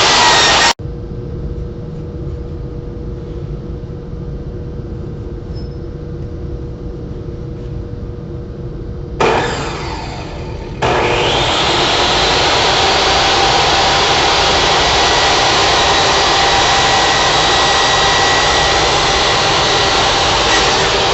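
Band saw running loudly. About a second in the sound cuts sharply to a quieter hum with one steady tone, then the full, loud running returns from about eleven seconds in. It is the saw that jammed when its blade went off track.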